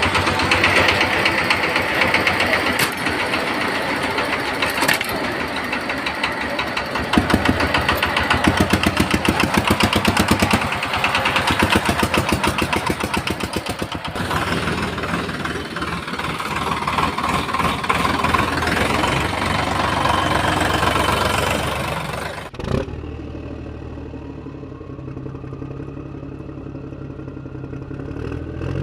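Engine running with a fast, even chugging, loud for most of the time. About three-quarters through it cuts off abruptly with a click to a quieter engine sound and a whine that slowly rises in pitch.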